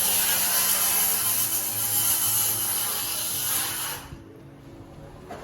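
A loud, even hissing noise that cuts off about four seconds in, over quiet background music.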